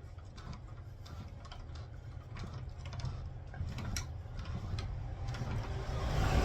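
Scattered light clicks and taps of steering parts and tools being handled, over a low steady hum, growing louder toward the end.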